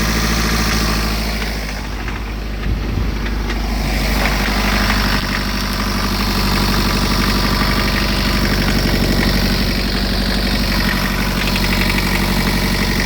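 BMW N47 four-cylinder turbodiesel running steadily, dipping a little for a couple of seconds early on before holding steady again. The engine has no power and won't rev past 1500 rpm, which the mechanic puts down to a seized turbocharger with a stuck wastegate.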